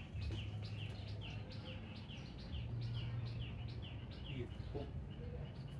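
A bird calling a fast, even series of short falling chirps, about three a second, over a low steady hum.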